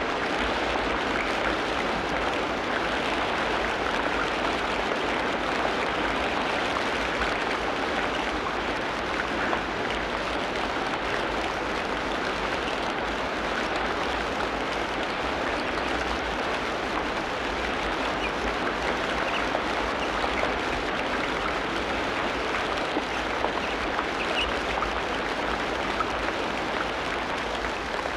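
Tropical rainforest ambience: a steady, even wash of rushing water, with a few faint high chirps in the second half.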